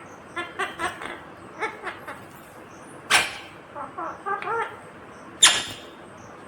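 Indian ringneck parakeet calling: a run of short chattering calls, broken by two loud, sharp screeches, one about three seconds in and one near the end.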